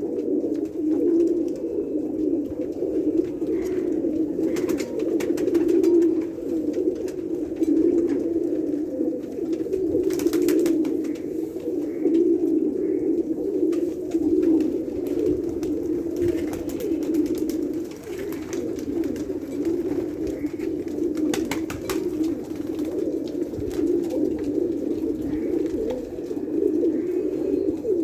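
Many domestic pigeons cooing at once, their calls overlapping into a steady, unbroken drone. A few brief clicks sound over it.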